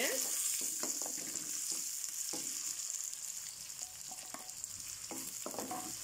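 Sliced onions, green chillies and curry leaves sizzling steadily in hot oil in a non-stick wok, with a wooden spatula scraping and knocking against the pan every second or so as they are stirred.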